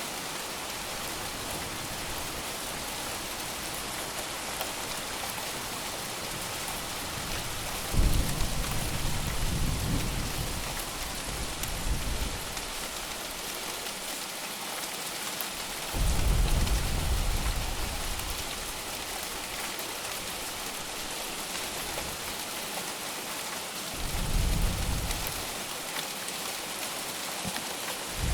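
Steady heavy rain falling, with low rolls of thunder about eight seconds apart: the first and loudest begins suddenly about a third of the way in, then two more follow, the last near the end.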